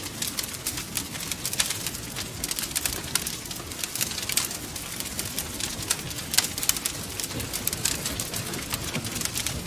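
Fireplace fire crackling: a steady hiss with frequent irregular sharp pops and snaps.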